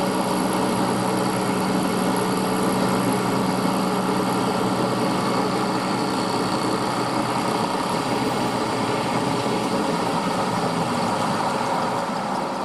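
Milling machine running steadily while taking a light test cut in a brass bracket turned on a rotary table. The sound starts to fade near the end.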